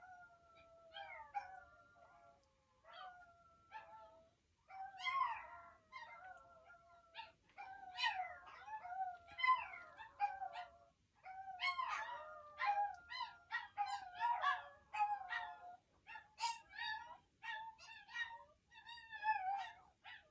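Several chihuahuas howling together in wavering, overlapping high-pitched howls broken by short yips. The chorus is thin at first and grows fuller and louder about five seconds in.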